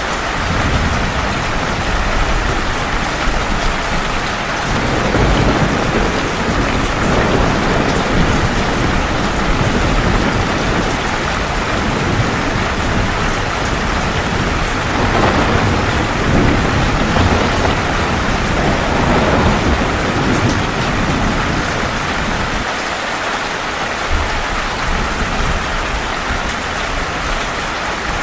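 Heavy rain falling steadily, with low rolling thunder swelling up twice: about five seconds in, and again for several seconds around the middle.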